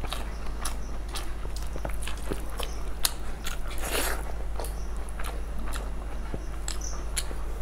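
Close-miked eating sounds of masala fried rice eaten by hand: quick wet mouth clicks, lip smacks and chewing. A louder, longer mouthful comes about four seconds in.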